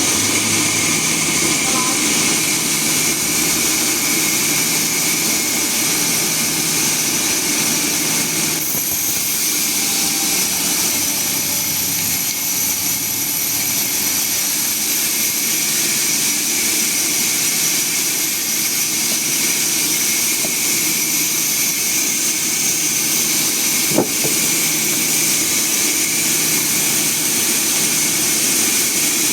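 Sawmill machinery running steadily with a continuous mechanical whine, and a single sharp knock near the end.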